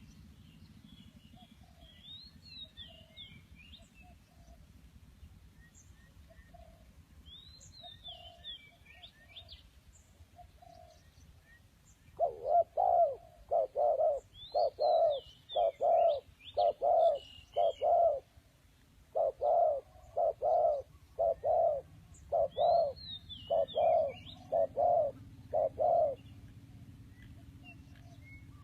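A bird calling in two long series of loud, low, hooting coo-like notes, about two a second, the first starting about halfway through and the second following after a short break. Fainter high chirping phrases from another bird come every few seconds.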